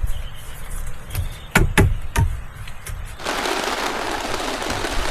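A few sharp knocks, then heavy rain starts up suddenly about three seconds in and keeps falling steadily.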